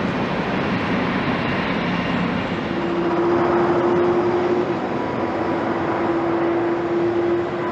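Jet airliner engines running: steady noise with a low hum from a Boeing 777-300, then, about three seconds in, a different airliner, an Airbus A350-900, with a steady higher hum.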